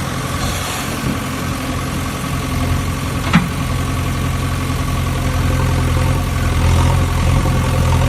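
An engine idling steadily, with a single sharp click about three and a half seconds in.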